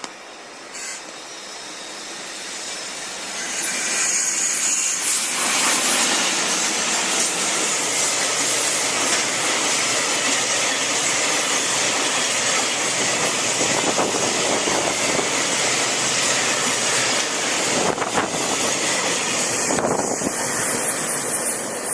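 A freight train hauled by two coupled EF64 electric locomotives passing close by. The sound swells over the first few seconds as it arrives, then stays loud and even with the rumble and clatter of wheels on rail as the wagons go by.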